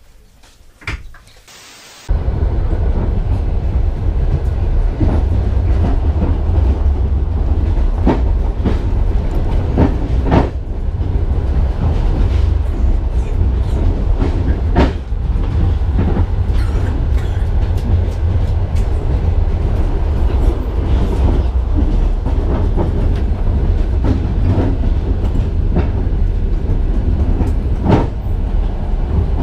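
Passenger train car running at speed, heard from inside: a loud, steady low rumble of wheels on track with scattered knocks from the wheels and carriage. It cuts in suddenly about two seconds in, after a quieter stretch.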